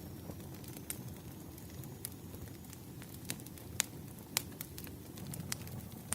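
Crackling wood fire: irregular sharp snaps and pops, several a second, over a steady low rumble of burning logs.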